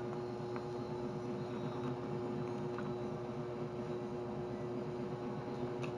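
Steady background hum with a constant tone, with a few faint ticks.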